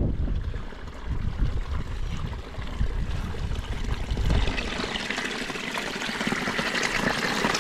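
Water running and trickling, with gusts of wind buffeting the microphone in the first few seconds and a steady rush of water growing louder about halfway through.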